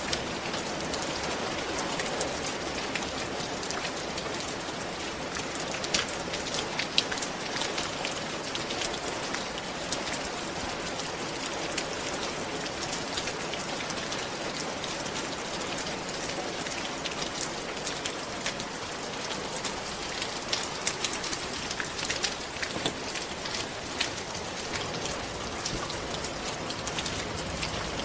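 Steady rain falling on a roof, an even hiss with many separate drops tapping sharply on top.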